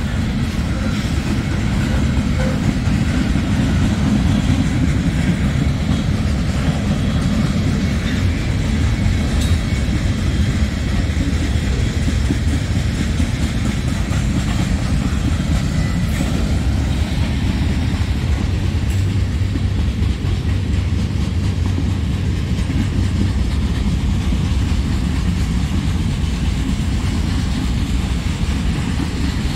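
Freight train rolling past: a steady, loud rumble of cars and wheels on the rails, with no change through the half minute.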